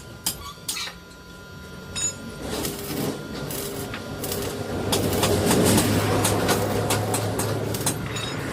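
Metalwork on a steel frame: a few sharp metallic clicks, then a crackling, hissing noise that builds up over a couple of seconds and holds, with a low hum under it.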